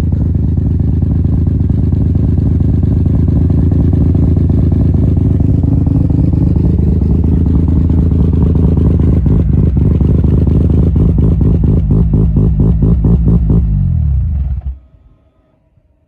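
Turbocharged semi-peripheral-port Mazda 13B rotary engine in an FD RX-7, fitted with a big HX50-based turbo, running loudly at its first start. Over the last few seconds it breaks into choppy, evenly spaced pulses, then it is switched off and cuts out suddenly near the end.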